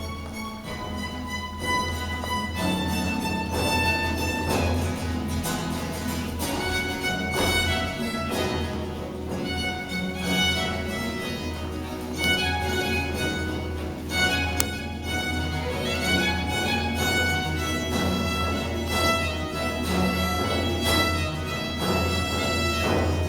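Early-music ensemble playing a baroque tonada, violins carrying the melody in a lively run of notes.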